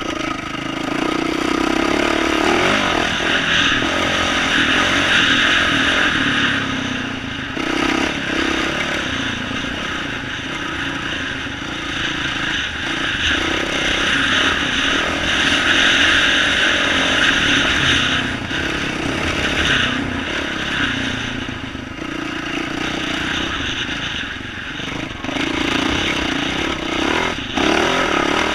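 2012 Yamaha YZ450F dirt bike's single-cylinder four-stroke engine with an aftermarket exhaust, running continuously while being ridden, the throttle opening and easing off so the sound swells and dips every few seconds.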